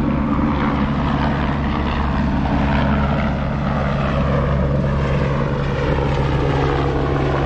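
Helicopter taking off: a steady, loud drone of rotor and engine, with a slowly shifting pitch in the higher tones.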